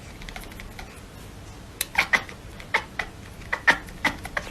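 A run of short, sharp clicks or taps at irregular spacing, about eight of them, starting about two seconds in after a faint quiet stretch.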